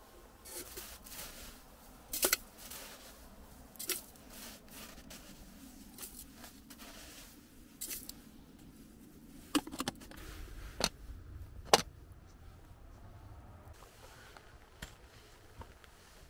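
Objects being handled: scattered sharp clicks and knocks a second or more apart, with soft rustling between. The loudest knock comes about three-quarters of the way through.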